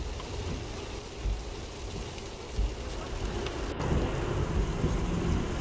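Heavy rain pouring onto open, waterlogged dirt ground, a dense steady hiss, with low rumbles swelling up every second or so.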